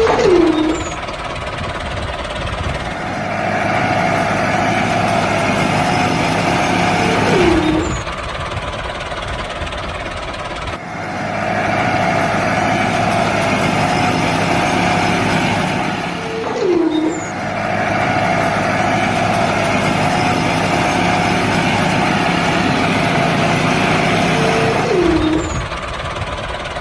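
Steady engine-like machine noise from a mini tractor running, with a short falling whine about every eight to nine seconds, the same pattern repeating over and over.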